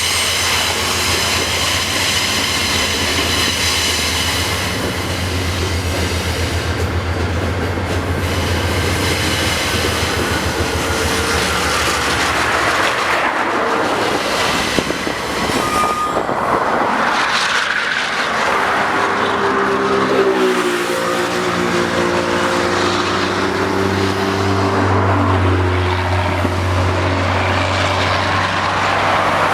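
Freight train rolling through a curve: wagon wheels clattering over the rail joints with high-pitched wheel squeal, over the steady hum of a diesel locomotive. About two-thirds of the way in the engine note steps to a different pitch.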